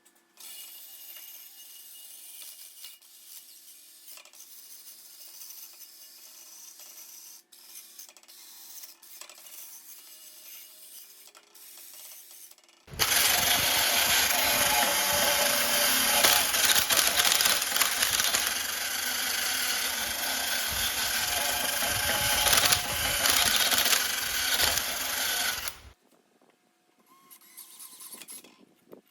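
A power tool working the metal of a transmission bell housing. For the first half it runs quietly with a faint steady hum and a few clicks. About halfway through it turns loud and dense for roughly thirteen seconds, then cuts off suddenly.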